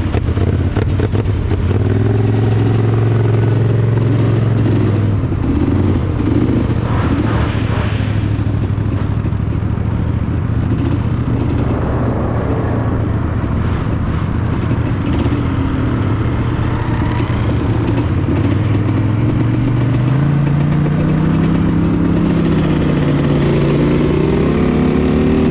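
Polaris Scrambler 400 two-stroke ATV engine running under the rider as it moves along a trail, holding a steady pitch and then revving up about three quarters of the way in.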